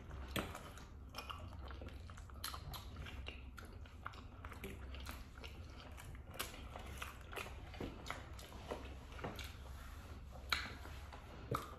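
Close-up eating sounds: faint chewing and wet mouth noises with scattered short clicks, a sharper click about ten and a half seconds in.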